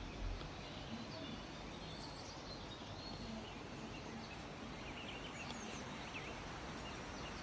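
Outdoor ambience: a steady background hiss with faint birds chirping now and then, and a brief low bump at the very start.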